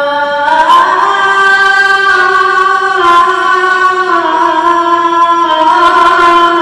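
A child's voice reciting the Quran in melodic tajwid, holding long drawn-out notes. The pitch rises about half a second in, then steps down slightly twice.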